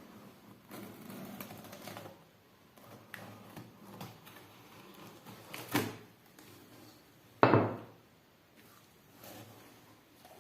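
Handling noises from a phone box and its packaging being opened and moved on a table: light scuffs, a sharp click a little before the 6-second mark, and a louder knock about three-quarters of the way through.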